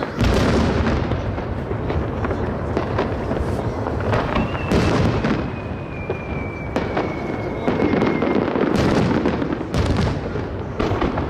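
Aerial fireworks shells bursting one after another, a steady run of booms and crackle with several sharp loud reports. A thin high tone slides slowly downward through the middle stretch.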